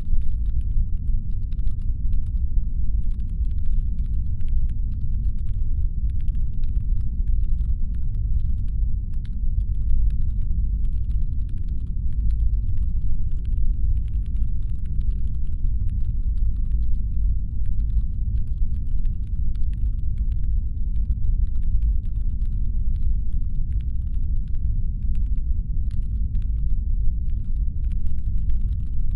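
Deep, steady brown-noise rumble, designed as a spaceship's engine hum, with a faint steady tone above it. Faint, irregular clicking crackles throughout.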